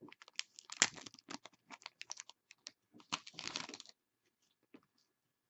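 Foil trading-card pack wrapper being torn open and crinkled by hand, a dense run of crackles and clicks that stops about four seconds in.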